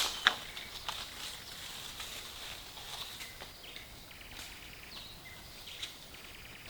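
Dry fallen leaves and twigs crackling and rustling in scattered snaps, with one sharp snap just after the start. There is a faint short buzz about four seconds in.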